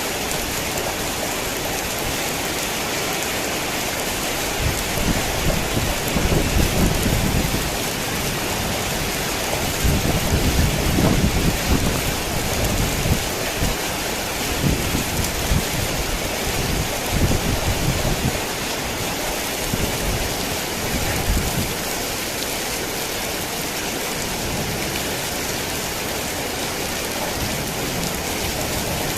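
Heavy rain falling in a steady hiss, with low rolling rumbles of thunder that swell and fade between about five and eighteen seconds in and once more a little later.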